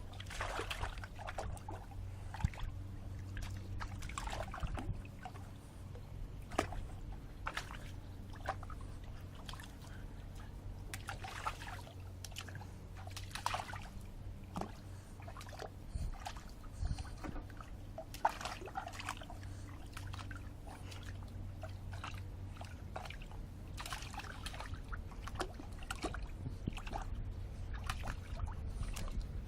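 Water in a bird bath being splashed and sloshed by a small dog, a Boston terrier–French bulldog mix, playing in it, in irregular bursts of splashing and dribbling. A steady low hum runs underneath.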